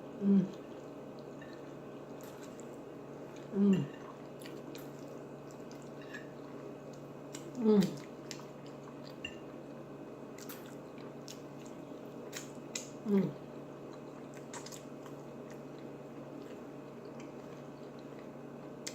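Close-miked chewing with wet mouth clicks and smacks. Four times it is broken by a short hummed "mm" of enjoyment that falls in pitch.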